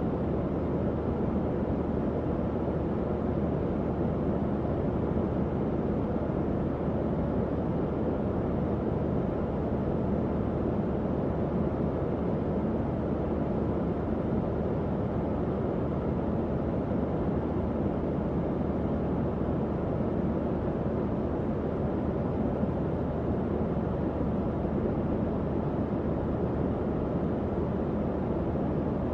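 Tower fan running steadily: an even, low-pitched whoosh of moving air with a faint motor hum beneath it.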